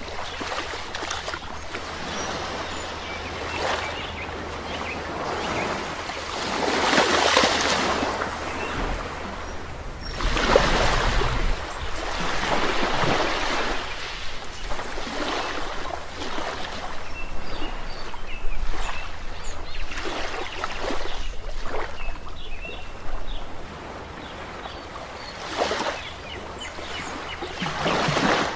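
Sea waves washing onto a shore, the surge swelling and falling away every few seconds with several louder breaks. Faint bird chirps sound now and then through the wash.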